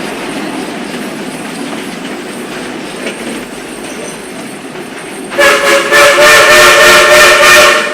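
Steam locomotive No. 76's Southern three-chime whistle blows one long, loud chord starting about five and a half seconds in. Before it, and under it, the train rolls steadily along the track.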